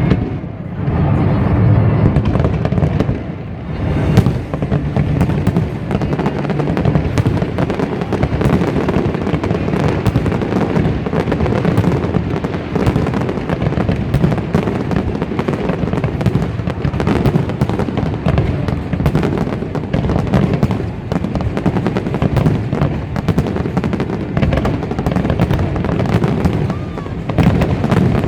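Fireworks display going off in a rapid, continuous barrage of bangs and crackles, with a heavier boom about four seconds in.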